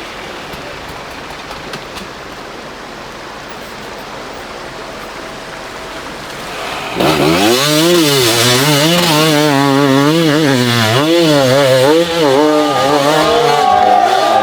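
Dirt bike engine revving hard close by, its pitch rising and falling rapidly as the throttle is worked. It comes in suddenly about halfway through, after a steady background noise.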